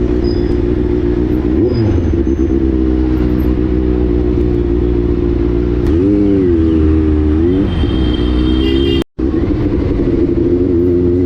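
Motorcycle engine idling steadily and blipped briefly about two seconds in, then twice more past the middle. The sound drops out for an instant near the end.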